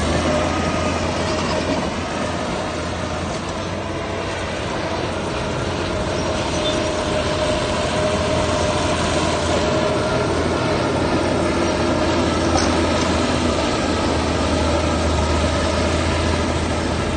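Heavy diesel machinery running steadily under load, a continuous engine hum with a rumbling, grinding mechanical noise over it.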